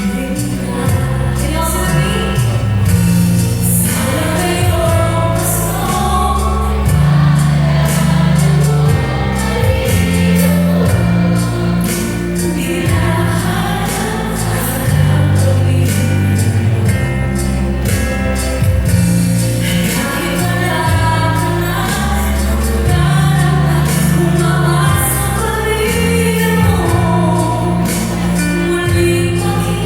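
A woman singing with instrumental accompaniment, over a prominent bass line that steps from note to note.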